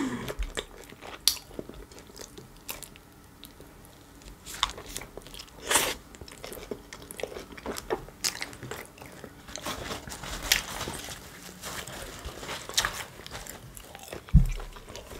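Close-miked chewing of a chicken shawarma wrap: scattered wet mouth clicks and soft crackles, a few of them louder, with one low thump near the end.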